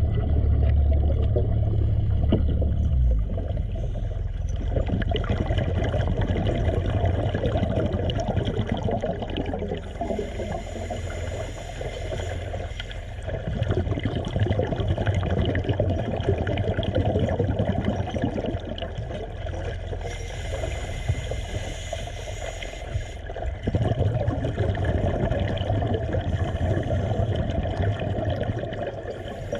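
Water sloshing and gurgling over the steady hum of a motor, with a deep rumble that drops away about three seconds in.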